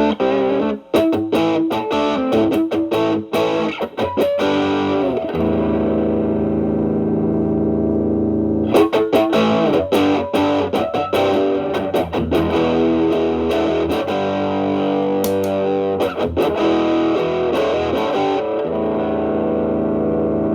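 Overdriven Stratocaster electric guitar played through an Xotic BB Plus preamp, with channel A stacked as a gain boost into channel B, into a Marshall Valvestate amp. A quick run of picked notes opens, then long held chords ring out, broken by further short runs about nine seconds in and again near sixteen seconds.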